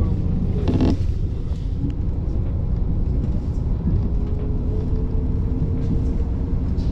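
Diesel railcar running, heard from inside the car: a steady low rumble of engine and wheels, with a short knock about a second in and a faint steady whine joining about halfway.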